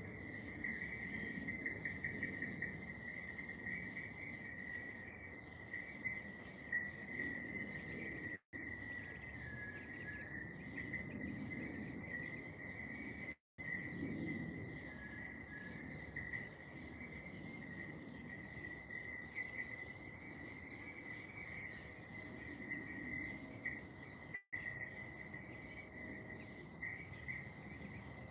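Steady, continuous trilling of insects, cricket-like, over a low background rumble, with a few faint higher chirps. The sound cuts out completely for a split second three times.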